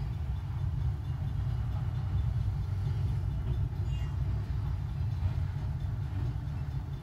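Freight train of log-loaded flatcars rolling past, a steady low rumble.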